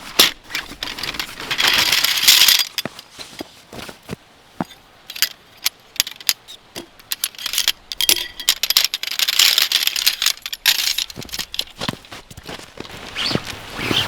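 Objects being handled: scattered clicks, knocks and rattles, with two longer stretches of hissing rustle, about a second and a half in and again about eight seconds in.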